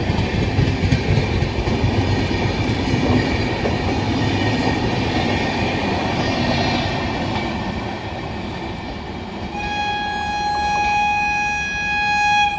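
Train running on the rails with a steady rumble and wheel clatter; near the end a train horn sounds one long blast.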